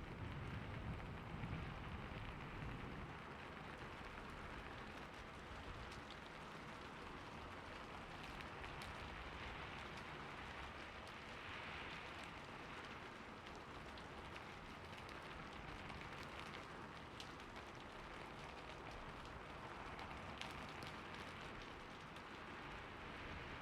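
Steady rain falling, with single drops ticking now and then. A low rumble of thunder dies away over the first few seconds.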